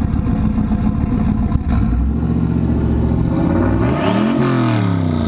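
Boosted, E85-tuned truck engine running loud and uneven, then revved once sharply about four seconds in and dropping back. A faint rising whine comes with the rev.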